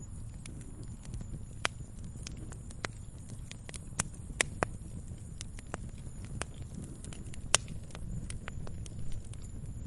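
Wood fire crackling, with irregular sharp pops (a few louder ones about four and four and a half seconds in, and another near eight seconds) over a steady low rumble of burning.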